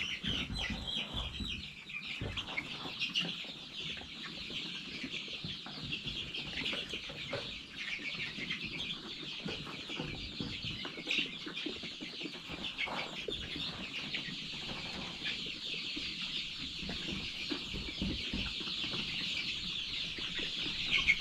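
A flock of young chickens peeping and cheeping all together in a steady, continuous high-pitched chorus, with a few faint knocks underneath.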